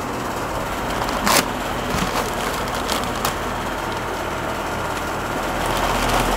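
Steady vehicle cabin noise of engine and road rumble, with a few light clicks or knocks about a second, two seconds and three seconds in.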